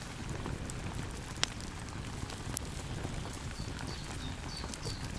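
Steady rain-like hiss with a few sharp ticks, and brief high chirps in the second half.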